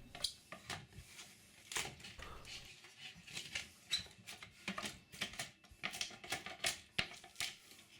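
Scattered light knocks and clicks of wood on wood, irregular and fairly faint, as the old rotten shutter stile is knocked and worked loose.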